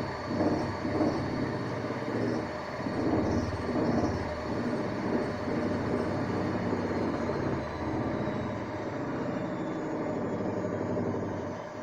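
Hanseatic washing machine on a loud spin cycle: a rhythmic thudding churn through the first half, with a thin high motor whine that slowly falls in pitch from about halfway. The sound drops in level right at the end.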